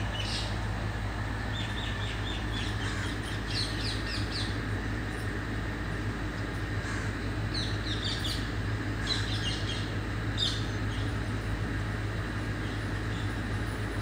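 Birds calling from a tree: short, shrill, parrot-like calls in quick clusters, several times over, above a steady low rumble.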